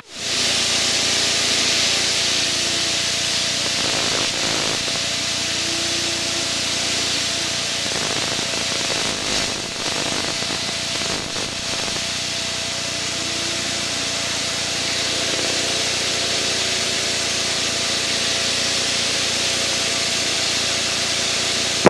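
Steady cockpit noise of a light propeller airplane in flight: an even, loud hiss of engine and airflow with a faint steady hum under it.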